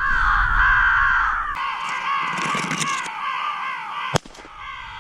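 Crows cawing in a dense, continuous chorus, cut off by a single sharp shotgun shot about four seconds in.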